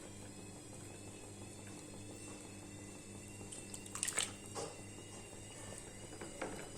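Faint water sounds from a pot of soup on the stove over a steady low hum, with a few short clicks about four seconds in.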